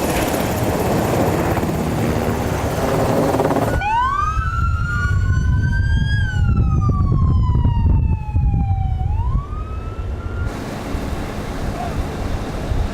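A loud rushing noise with a low rumble, then, about four seconds in, an emergency vehicle siren wailing: its pitch rises, falls slowly over about three seconds and rises again before it cuts off near the end. The low rumble continues under the siren.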